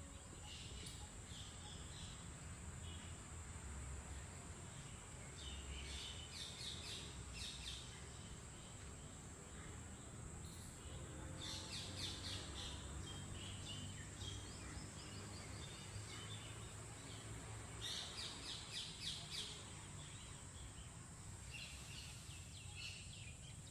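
Birds calling in short bursts of rapid, high chattering notes, about five times, over a steady low outdoor rumble.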